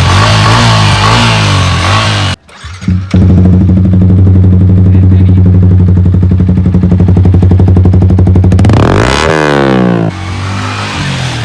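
Yamaha R15 motorcycle exhaust running and being revved. A sudden break about two seconds in gives way to a loud steady high-revving note for about five seconds. The revs swing quickly up and down, and then it settles to quieter running.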